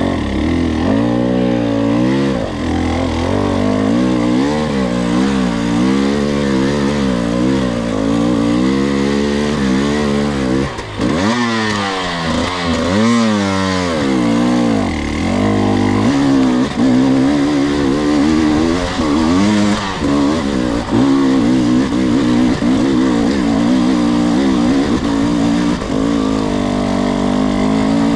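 Two-stroke enduro dirt bike engine running at low revs on the trail, its pitch rising and falling with the throttle. A little past a third of the way in the revs drop away and then sweep up sharply a couple of times.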